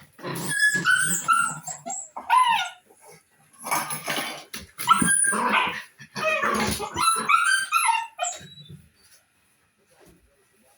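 A dog barking and yipping, with high whines that slide down in pitch between the barks, in a run of bursts lasting about nine seconds.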